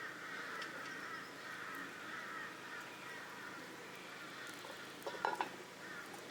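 Wild birds calling by the water: a quick run of repeated chirps that fades over the first few seconds, then a short louder call about five seconds in.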